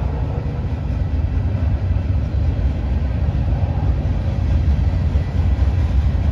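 Train passing close by: a steady, loud low rumble of the cars rolling along the track.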